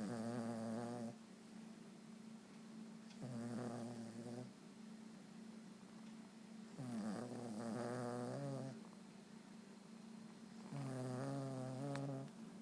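Small dog snoring in its sleep: four drawn-out, rasping snores, one every three and a half to four seconds.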